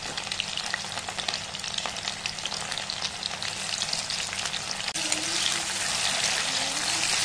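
Chopped tomato and onion sizzling and crackling in hot mustard oil in a cast-iron kadai while a steel spoon stirs them. The sizzle grows louder about five seconds in.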